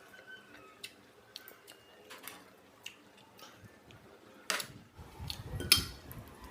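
Eating at a table: scattered small clicks of utensils and mouth sounds, with a louder knock about four and a half seconds in and a clatter with a low bump near the end.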